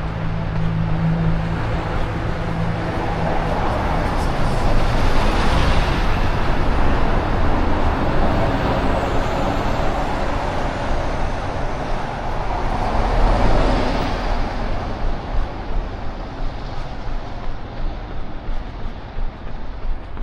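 Road traffic: vehicles passing close by, the noise swelling twice, once about a quarter of the way in and again past the middle. A low steady engine hum is heard in the first few seconds.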